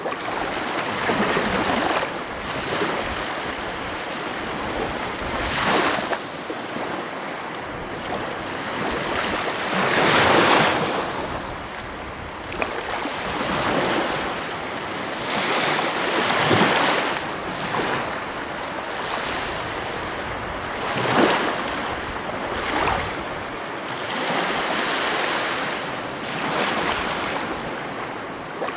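Heavy ocean waves breaking on the coast: a continuous surf wash that swells into a louder crash every four to five seconds as each wave breaks.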